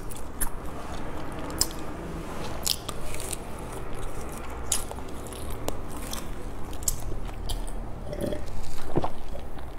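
Close-miked chewing of a soft, sticky green glutinous-rice cake (qingtuan) filled with salted egg yolk and pork floss, with many wet mouth clicks. Near the end come a few louder gulps from a glass of drink.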